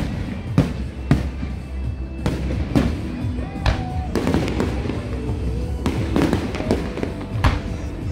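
Fireworks bursting in a run of sharp, irregular bangs, several close together, over steady music playing underneath.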